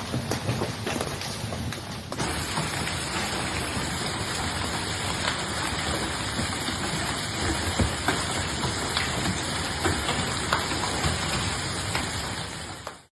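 Heavy storm precipitation pelting hard surfaces: a dense rushing patter with many scattered sharp, louder strikes, as from hailstones. The sound changes abruptly about two seconds in and cuts off just before the end.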